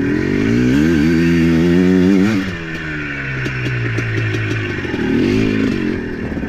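ATV engine revving under throttle, its pitch climbing and wavering for about two seconds, then dropping away as the throttle eases off, with scattered clattering ticks. It rises briefly again near the end.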